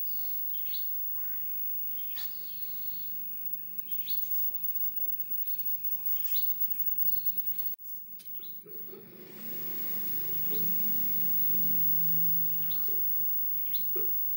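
Small birds chirping, short rising chirps every second or two. About halfway through, a louder steady hiss with a low, muffled sound underneath takes over.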